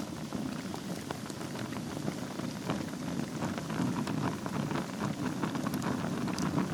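Wood fire burning in a fireplace over a bed of embers: a steady low rushing with many small crackles and snaps, and a sharper pop near the end.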